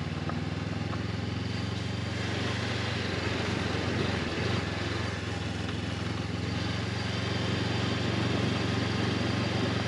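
Honda CB500X's parallel-twin engine running at a steady, even pace while riding, with wind and road noise over it.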